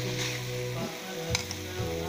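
Diced vegetables sizzling as they fry in oil in a pan, with a single clink of a utensil against the pan a little over a second in.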